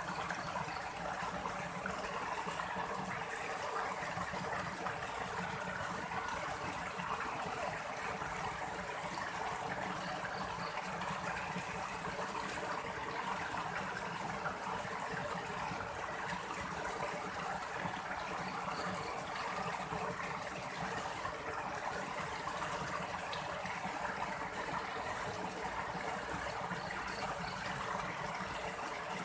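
Steady rushing water, an even hiss that runs on without a break.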